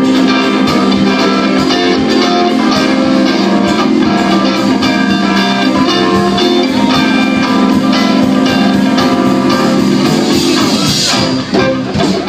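Live band music, guitar to the fore, playing steadily through sustained chords; about eleven seconds in the sound briefly drops and changes.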